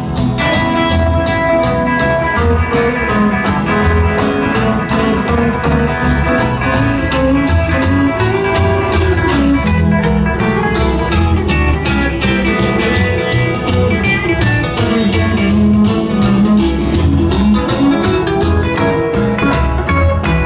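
Live honky-tonk country band playing an instrumental break, with a guitar taking the lead over a steady bass line and an even, driving drum beat.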